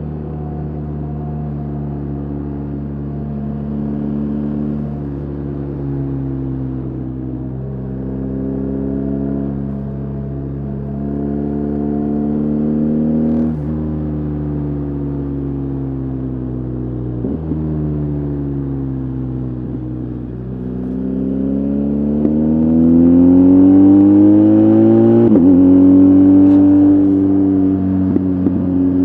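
BMW R 1250 GS Adventure's boxer twin engine pulling a motorcycle along a road. The revs rise and fall, with a few quick gear changes. About two-thirds of the way through it revs up harder and louder, then drops with an upshift.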